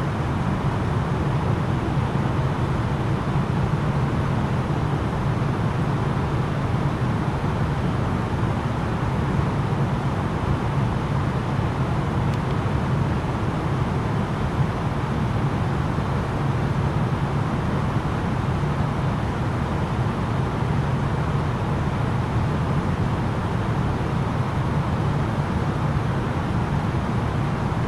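Steady drone of engine and airflow noise inside the cabin of an Airbus A330-900neo in flight, with its Rolls-Royce Trent 7000 engines. The noise is even throughout, deep and rushing.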